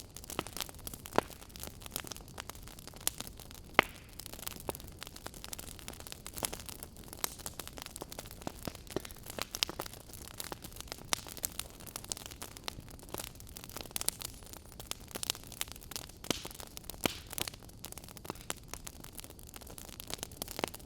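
Wood fire crackling in a fireplace: irregular sharp pops and snaps over a steady soft hiss, with two louder pops about a second in and just before four seconds in.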